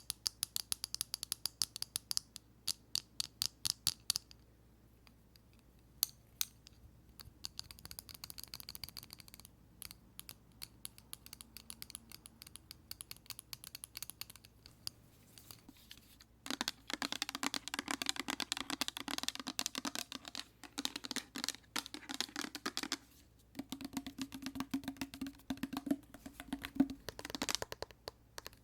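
Fingernails tapping and clicking on a pair of eyeglasses: sharp little clicks in quick runs with pauses between. About two-thirds of the way in it changes to fast, dense fingertip tapping on a plastic hand soap bottle, with a lower knocking tone under the clicks.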